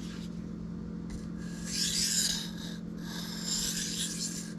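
Knife blade stroked across a sharpening stone: two long rasping strokes, the first starting about a second and a half in.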